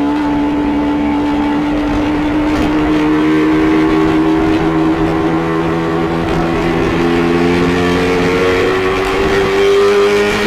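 Yamaha R15 V3's 155 cc single-cylinder engine running steadily through its stock exhaust, its pitch creeping slowly upward. The owner says the original exhaust has come to sound unusual for no reason he knows.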